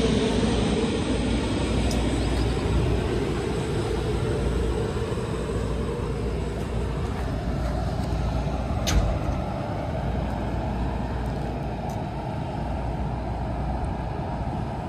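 Steady running noise of a moving passenger train, a continuous low rumble and rush that eases slightly. A single sharp click comes about nine seconds in.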